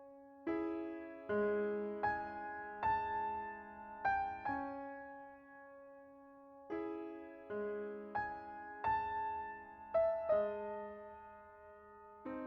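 Gentle solo piano background music: slow phrases of struck notes and held chords.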